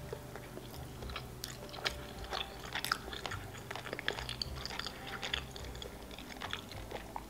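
Close-miked chewing of a baked gunkan sushi roll, heard as many small, irregular mouth clicks and soft crunches.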